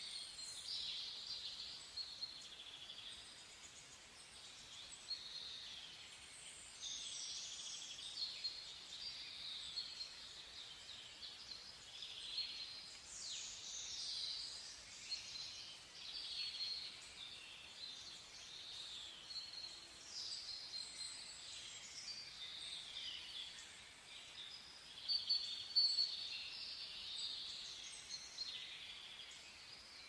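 Small birds chirping, many short high calls overlapping without a break, loudest about 25 seconds in.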